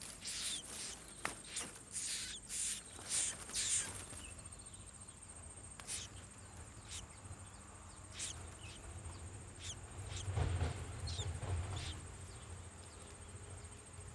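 Bird chirping: a quick run of short, sharp chirps that sweep down in pitch over the first four seconds, then single chirps every second or two, over a steady high-pitched whine. A low rumble swells about ten seconds in.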